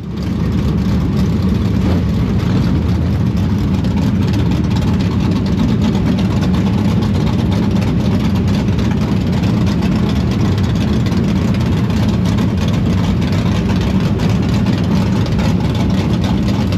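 Dirt late model race car's V8 engine running steadily as the car warms up before hot laps.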